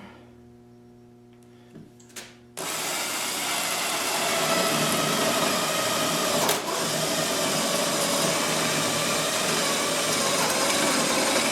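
Cordless drill starting about two and a half seconds in and running steadily at full speed, boring a peg hole through a wooden breadboard end, with one brief dip about halfway. A couple of light clicks come before it starts.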